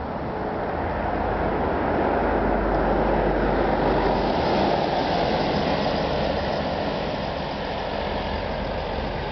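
Helsinki metro train running through an underground station, a steady rumble that swells over the first few seconds and then eases slightly.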